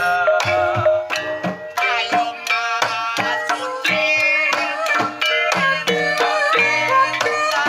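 Banyumasan gamelan playing a tayub gending: pitched bronze metallophones ringing in a running melody over frequent hand-drum (kendang) strokes.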